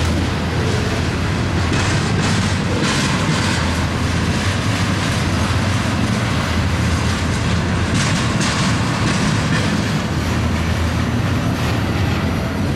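Double-stack intermodal freight well cars rolling past close by, steel wheels rumbling and clacking over the rail.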